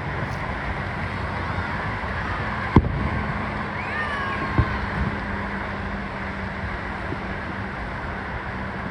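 Fireworks going off: one sharp bang a little under three seconds in and a smaller one under two seconds later, over steady outdoor background noise, with a few brief gliding whistles between them.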